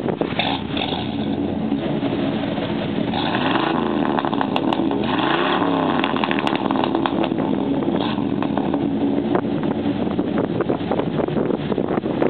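1991 K2500 pickup's 454 big-block V8 running through a 3-inch dual exhaust with a small Flowmaster race muffler. It idles steadily, with two brief revs about three and a half and five and a half seconds in, the pitch rising and falling each time.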